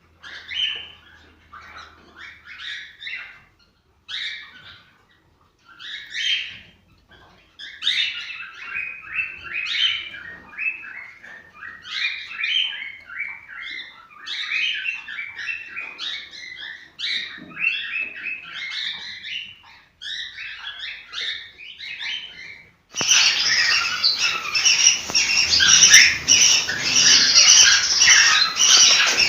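Cockatiels chirping and warbling in quick, repeated phrases with short pauses. About three-quarters of the way through, the sound cuts abruptly to a louder, dense chorus of many birds calling at once.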